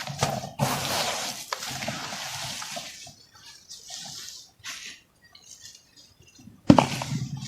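Chunks of crumbly earth material (cement or dirt) crumbling and breaking apart: about three seconds of gritty crumbling, then scattered small crackles and trickles, and a sharp snap of a piece breaking near the end.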